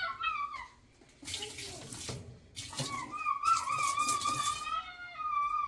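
Cleaning vinegar poured into a washing machine in two pours, the second starting about half a second after the first ends and lasting longer, with a high wavering tone held through the later part.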